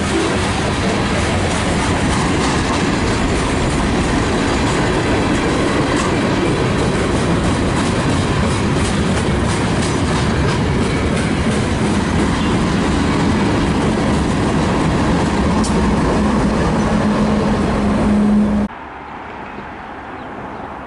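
A train rolling past, a loud, steady noise of wheels on rails with a faint steady hum beneath. About three-quarters of the way through it cuts off abruptly to a much quieter background.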